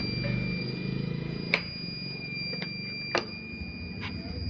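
Sharp clicks and knocks from handling the freshly reassembled electric cutter machine, over a steady faint high-pitched tone and low hum.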